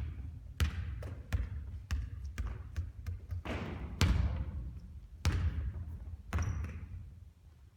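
Basketball bouncing on a court floor: a dozen or so irregularly spaced thuds, several trailing off in a long echo.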